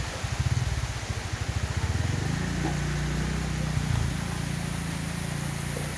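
A motor vehicle engine running, its low pulsing note settling into a steady hum about two seconds in, over a steady hiss of rain.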